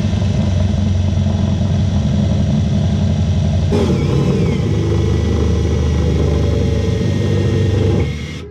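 Power drill running steadily as it cuts a hole into an aluminum fuel tank. Its sound shifts about four seconds in, and it stops near the end.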